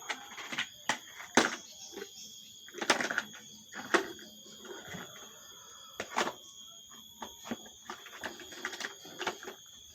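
Plastic toy vehicles being handled, with irregular sharp knocks and clicks and a few short scrapes, over a steady high-pitched tone.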